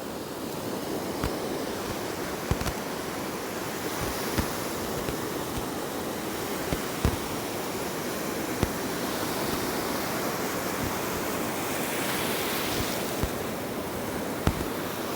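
Ocean surf washing steadily onto the beach, swelling slightly near the end, with a few scattered sharp clicks.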